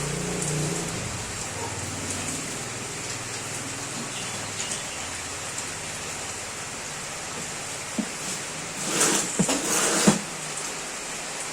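Steady hiss like rain falling, with a single knock about eight seconds in and a short burst of clattering and scraping with sharp knocks from about nine to ten seconds in.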